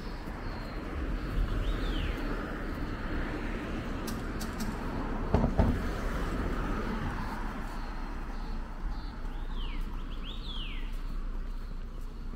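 Birds calling: quick whistles that slide down in pitch, once about two seconds in and a cluster near ten seconds, over a steady background rumble and hiss. There is a single thump a little past five seconds.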